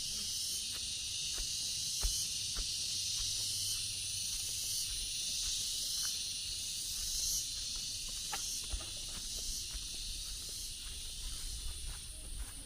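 Chorus of insects: a continuous high-pitched shrill drone, with scattered faint clicks.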